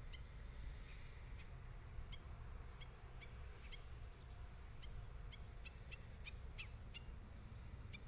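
Birds giving short, sharp call notes, about fifteen scattered unevenly and coming quicker in the second half, over a steady low rumble.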